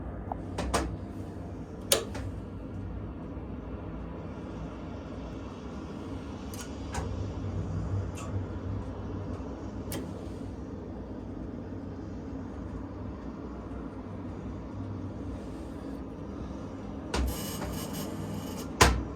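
Scattered clicks and knocks of hands working oil-servicing gear (caps, oil can, access fittings) in a jet's aft equipment bay during engine oil replenishment, over a steady low rumble. The sharpest knocks come about two seconds in and again just before the end.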